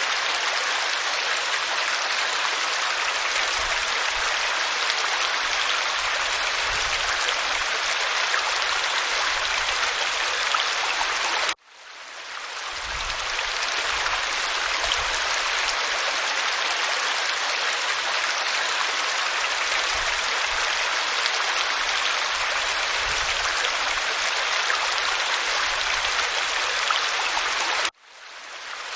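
Waterfall pouring onto rock: a steady rushing hiss. It cuts out abruptly twice, about twelve seconds in and near the end, and swells back each time over a second or two.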